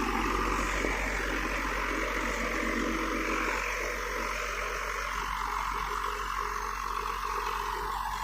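IVECO 6x6 truck's diesel engine running steadily under load as the tractor-trailer pulls up a steep sandy grade.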